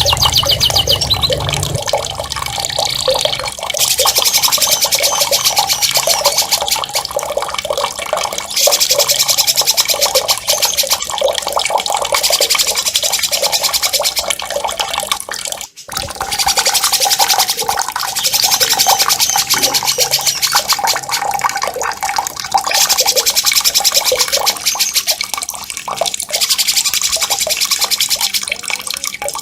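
A songbird singing loud, sharp rolling trills (ngerol), very rapid repeated notes in long bursts, over steady running, splashing water. The sound drops out briefly about sixteen seconds in.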